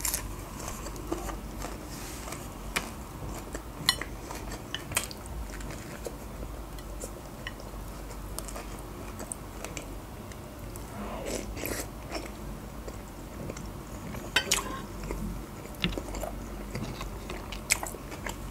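Close-up chewing and mouth sounds of a person eating a soft burger bun and spoonfuls of chicken soup, with scattered light clicks.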